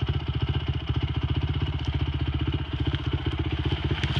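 Dirt bike's single-cylinder engine idling, a steady, even, rapid putter.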